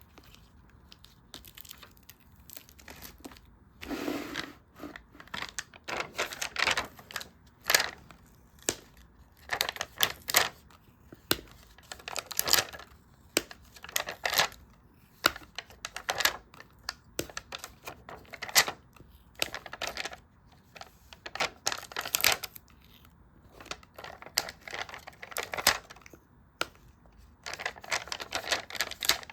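Stickers peeled off their backing sheets and pressed onto journal pages, with paper rustling and crinkling in short, irregular strokes and a longer rustle about four seconds in.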